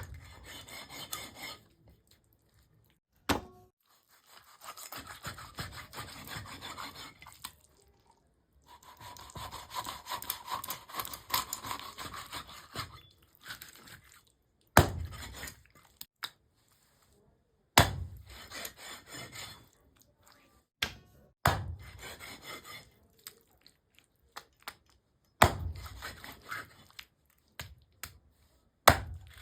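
Food being cut with a knife on a wooden chopping board: sharp knocks of the blade on the board, then stretches of rubbing, sawing strokes. The sounds come in short runs separated by complete silence.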